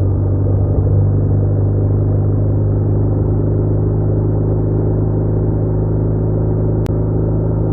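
BMW R1200R's flat-twin engine running at a steady speed while the motorcycle cruises, a constant low hum that holds one pitch throughout.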